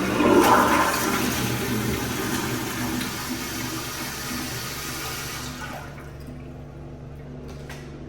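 Public-restroom toilet flushing: a loud rush of water that peaks right away, tapers off and stops about five and a half seconds in.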